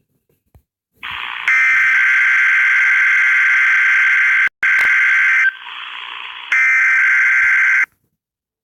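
Harsh electronic buzzer sounding in three loud blasts: a long one of about three seconds, a short one, then a pause filled by a quieter hiss and a final blast, cutting off sharply near the end.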